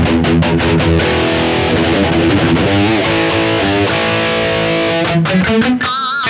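Distorted high-gain electric guitar played through an amp-modelling unit. It plays a quick chugging riff, then held notes with vibrato, and ends on a high lead note with a wide vibrato.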